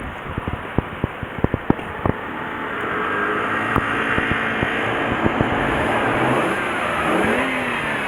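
A string of sharp clicks in the first two seconds, then a Mercedes-Benz E300's engine running, its sound building and its pitch rising and falling near the end as it is revved.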